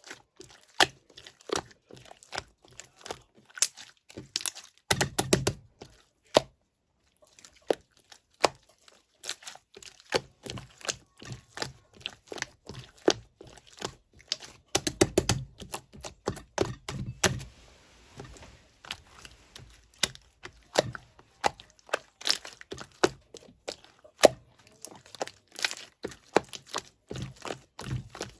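Clear, jelly-textured slime being squished and pressed by hand, giving a run of quick, irregular sticky clicks and pops that pause briefly about six seconds in.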